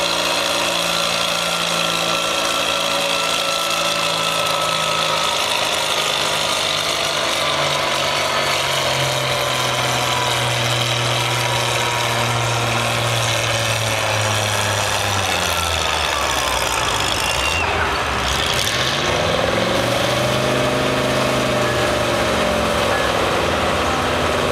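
Oliver 77 tractor engine, built out to 265 cubic inches, running loud and hard on a tractor-pull run. Its pitch sags slowly as it works under load, dips about two-thirds of the way through, then climbs again near the end.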